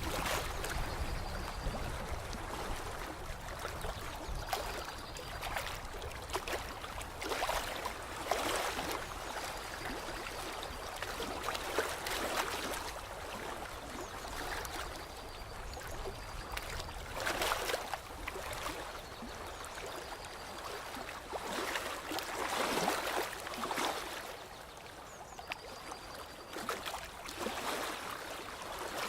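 Lake water lapping and splashing, coming in irregular surges every second or two.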